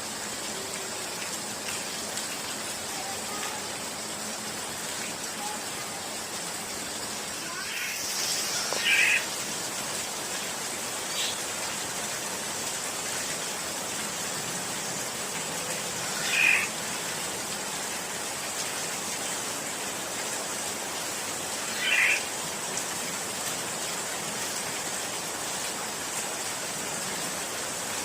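Black-naped oriole giving short, spaced calls, about four in all, several seconds apart, over a steady hiss with a thin high whine.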